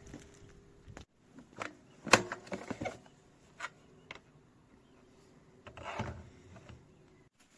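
Sparse light clicks and knocks of handling, the loudest about two seconds in and a small cluster near six seconds.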